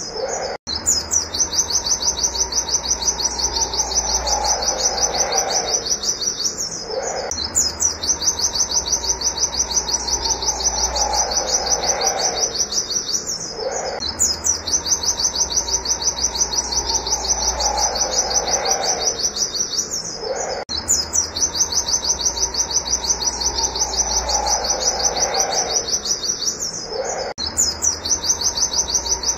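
White-eye (pleci) singing its rapid, high-pitched 'wit wit' shooting song: long runs of fast repeated notes, broken by brief pauses about every six to seven seconds. A lower, falling call sounds beneath it in the same rhythm.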